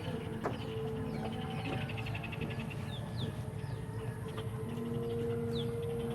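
Backyard ambience: small birds giving short, falling chirps again and again, with a fast insect-like trill for about a second starting around a second and a half in, over a steady low rumble.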